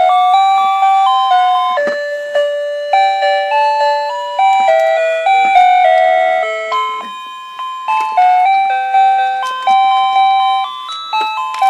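Electronic toy melody from a toy's sound chip: a simple tune of clean beeping chime notes, each struck and fading, about two a second.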